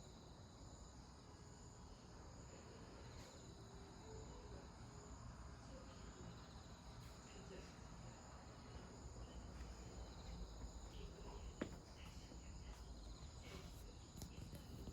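Faint, steady chirring of night insects such as crickets over a low background rumble. One sharp click comes late on.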